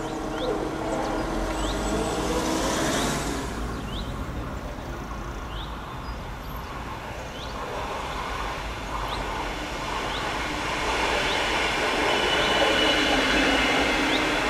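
Double-deck regional express train pulling into the station, its running noise growing louder over the last few seconds. Brakes squeal with a steady high tone as it slows to stop.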